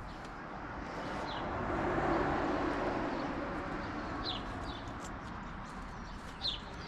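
Small birds chirping, short high falling calls every second or so, over a low rushing noise that swells and fades away about two seconds in.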